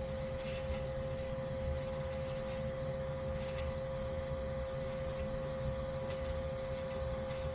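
Combustion analyzer's sampling pump running during a flue draft test on a gas water heater: a steady hum with one constant mid-pitched tone over a low rumble.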